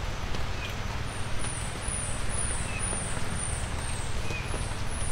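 Light rain falling in woods: a steady hiss with scattered drip ticks over a low rumble, a high chirp repeating about three times a second, and a fainter short call about once a second.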